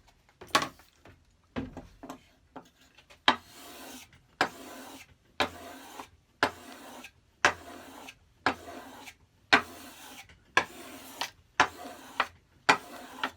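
Record No. 5 plane blade being honed on 2500-grit abrasive paper over a ceramic tile, putting on the final micro bevel. There are a few knocks as it is set in place, then about ten even rasping strokes, roughly one a second, each starting with a sharp click.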